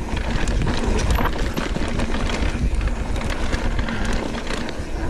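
Mountain bike ridden fast down a dirt trail: wind buffeting the microphone as a loud, steady rumble, with tyres on the dirt and the bike rattling and clattering over bumps.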